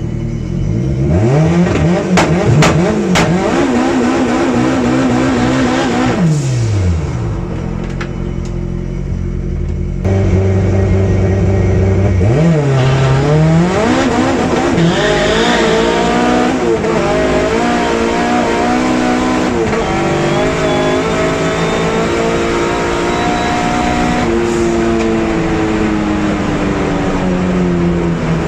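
Drag racing cars' engines revving hard at the start line with several sharp cracks, then launching and pulling up through the gears. Near the end the engine note falls steadily as a car goes past.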